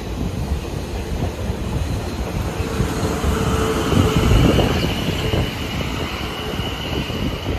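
A South Western Railway train passing through the station, its rumble building to a peak about four seconds in and then easing, with a steady high whine over it.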